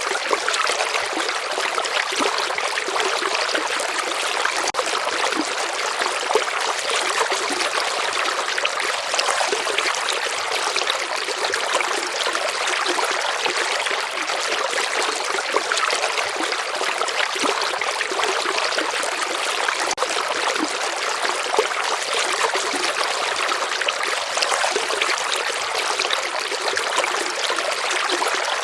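A small stream or river flowing and trickling steadily, an even rush of water with fine splashing detail.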